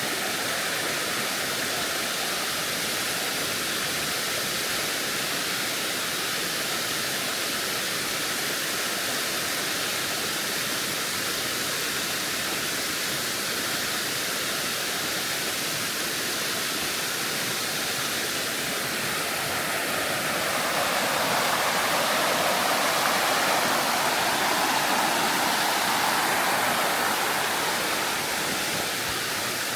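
Spring-fed waterfall pouring from a cliff, a steady rush of water. It swells louder about two-thirds of the way through, then eases a little near the end.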